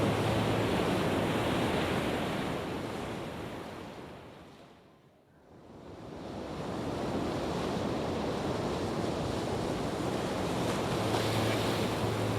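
Heavy rain falling, a steady hiss that fades away almost to nothing about five seconds in and then swells back up.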